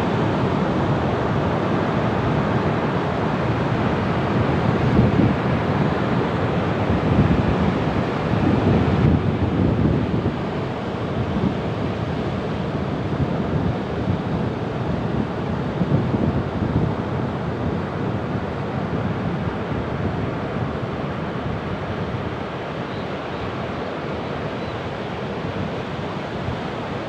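Ocean surf: waves washing in as a continuous rush, with louder surges every few seconds.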